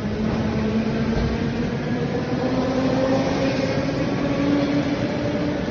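Russian suburban electric train running, its traction motors giving a whine that rises slowly and steadily in pitch over a continuous rumble, as the train speeds up.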